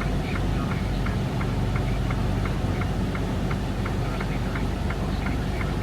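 Semi truck's engine running steadily as a low drone heard inside the cab while driving, with a light ticking about four times a second over it.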